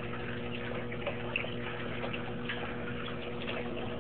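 Garbage disposal motor humming steadily while water is pumped up out of the other sink's drain and splashes, with many small dripping and splashing ticks. The coffee-ground clog blocks the disposal's outlet, so it drives the water back up through the adjoining sink's drain instead of down the pipe.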